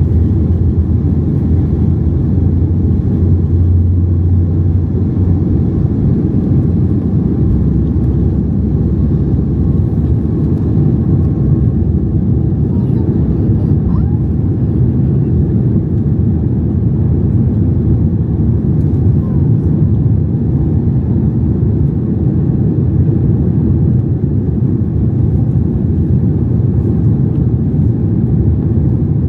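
Steady low cabin rumble inside a Boeing 737 MAX 8 with its CFM LEAP-1B engines running. A low hum in it fades out about five seconds in.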